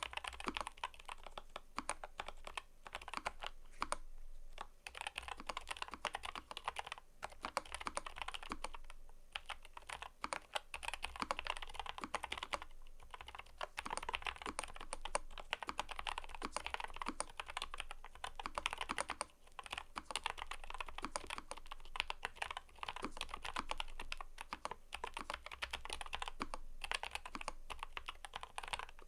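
Typing on a mechanical keyboard: rapid, continuous keystroke clicks in runs, with a few short pauses between bursts.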